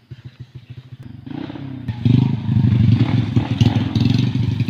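Engine being warmed up: idling with an even pulse, then revved from about a second in and held at higher revs, much louder from about two seconds in.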